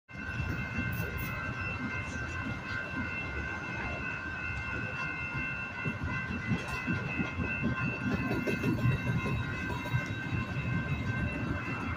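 Freight train cars rolling past, a steady low rumble with many short wheel knocks and clatter. Several steady high-pitched squealing tones run over the rumble throughout.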